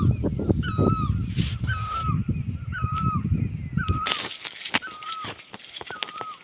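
Asian koel calling: a short inflected note repeated about once a second. Behind it is a faint high pulsing about twice a second, and a low rumble that stops about four seconds in.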